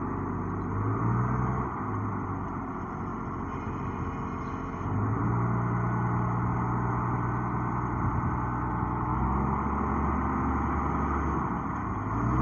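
Heavy diesel engine running under load, the revs rising about five seconds in and the note dropping lower near ten seconds.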